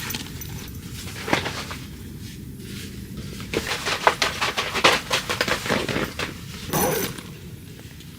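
Irregular rustling and crackling in quick clusters, busiest in the middle, with sharper crackles about a second and a half in and again near seven seconds.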